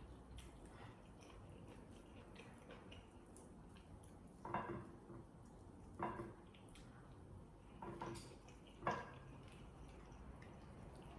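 Close-up eating sounds of a person chewing and biting into a chicken leg: four short mouth sounds spaced a second or two apart in the second half, over faint background.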